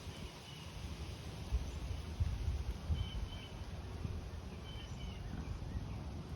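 Small birds chirping in short, high paired notes a few times, over a steady low rumble.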